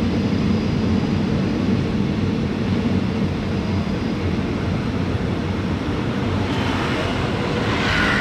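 Passenger train running along the tracks: a steady low rumble, with a brief rushing hiss that swells near the end.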